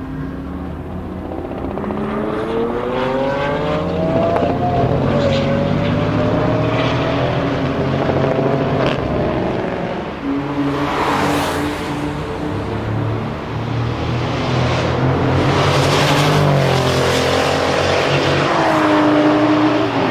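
Brabus 850 6.0 Biturbo twin-turbo V8 accelerating hard on track. Its engine note climbs steadily and drops at each upshift, then climbs again. Twice in the second half there is a loud rushing noise as it passes.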